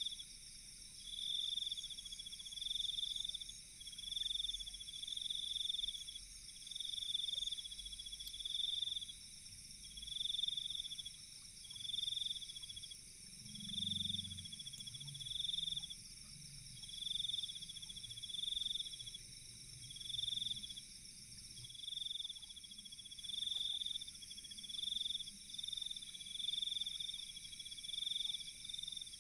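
Night chorus of insects: a steady high shrill with a trilling call near it, repeating about every second and a half. A faint low rumble comes in around the middle.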